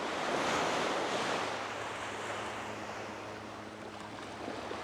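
Small wave washing up the beach, a rush of surf that swells over the first second or so and then slowly dies away.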